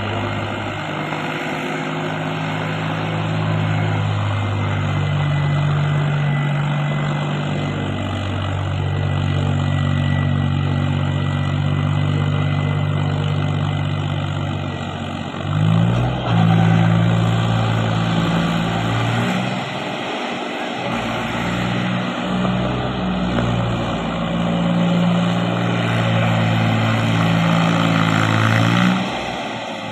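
Mahindra 265 tractor's three-cylinder diesel engine running steadily, revving up about halfway through and dipping briefly near the end.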